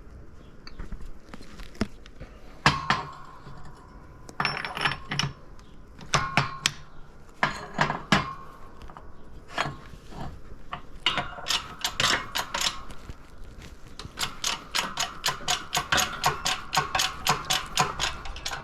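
Metal clicking and clinking from K-series transmission gears and synchro parts being worked and turned on the gearshaft, with a light metallic ring. It comes in short bunches, then near the end as a fast run of about five clicks a second.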